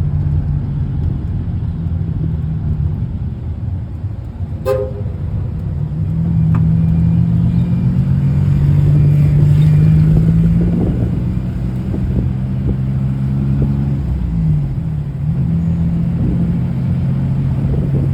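Diesel passenger train running, heard through its open windows: a steady low engine drone with rumble and rattle, its pitch dipping briefly near the end. A sharp knock about five seconds in.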